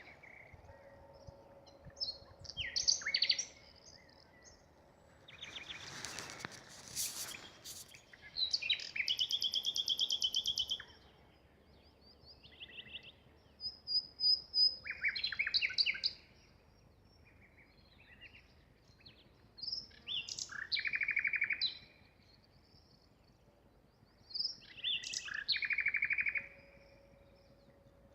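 Nightingale singing: short, varied phrases of whistles, fast trills and sharp clicking notes, each phrase followed by a pause of a second or more.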